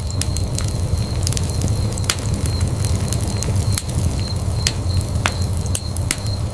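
Wood fire in a fireplace crackling, with sharp pops at irregular moments over a low, steady rumble of the flames.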